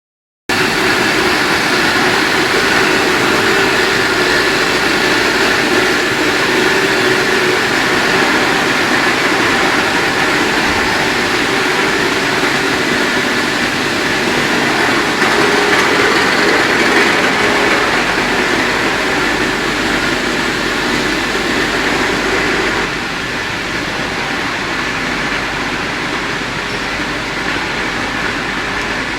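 Industrial microwave drying machine running steadily, a continuous mechanical noise with a faint steady hum in it; the level steps down a little about 23 seconds in.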